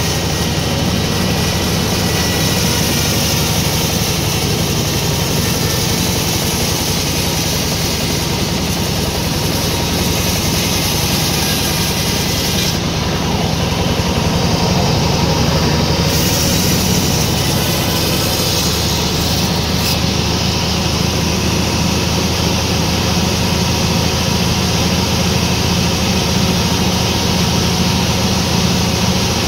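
Sawmill machinery running steadily, a loud continuous mechanical drone with a low hum underneath.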